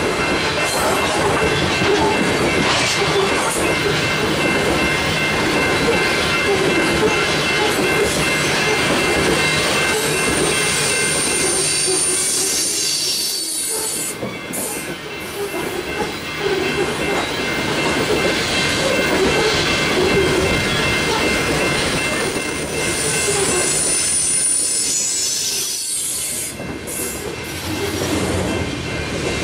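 Empty coal train's open-top coal cars rolling past at trackside: a steady rumble and clatter of steel wheels on rail, with a high-pitched wheel squeal that swells and fades twice.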